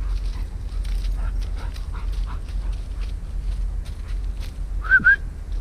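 Labrador retriever giving a short, high, rising whine in two parts near the end, over the crackle of brush being walked through and a low wind rumble on the microphone.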